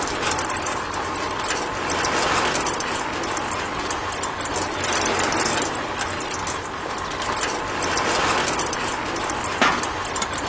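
Small motor-driven sand-and-stone separating machine running steadily, a continuous rattling noise, with a sharp click near the end.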